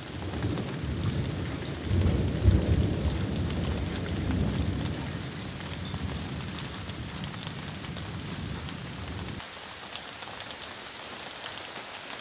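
Steady rain falling, full of small drop ticks, under a long low rumble of thunder that swells about two seconds in, eases, and cuts off about nine seconds in.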